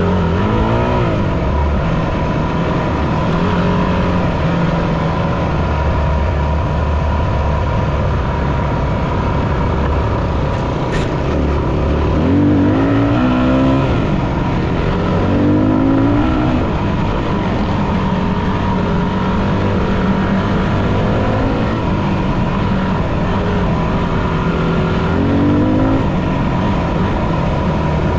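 Yamaha WR250F dirt bike's single-cylinder four-stroke engine running under way, revving up in rising sweeps several times: once at the start, a few times in quick succession midway, and again near the end.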